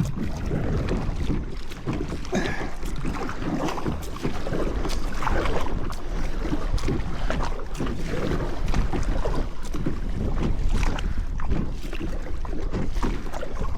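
Kayak paddle strokes splashing and dripping in the water, with wind rumbling on the microphone.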